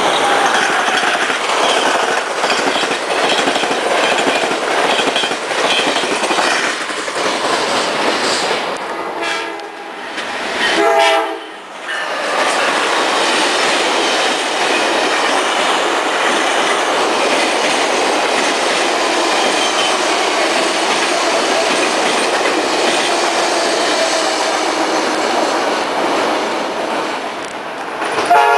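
A train passing close by: a steady, loud rush of wheels on rails, with short horn blasts about nine and eleven seconds in.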